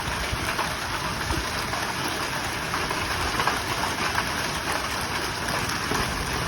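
Heavy rain and hail pelting down in a severe thunderstorm: a steady hiss of rain filled with many small clicks of hailstones striking surfaces.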